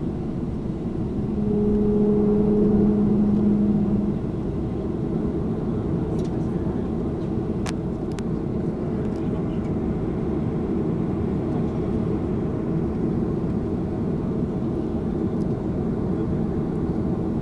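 Steady low rumble of a Boeing 737-400's cabin with its engines running. About a second in, a steady low hum swells for about three seconds, and two sharp clicks come near the middle.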